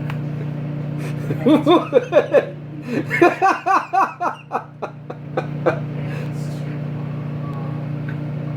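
Microwave oven running with a steady hum while a person laughs in a run of short bursts from about a second and a half to nearly six seconds in.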